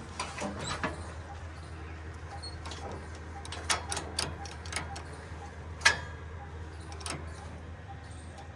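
Heavy diesel machinery running steadily with a low hum, with a few sharp knocks over it, the loudest about six seconds in.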